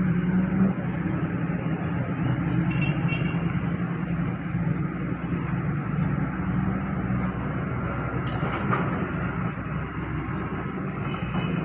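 Heavy diesel earthmoving machine engine running steadily under load, with a brief metallic clatter about three-quarters of the way through.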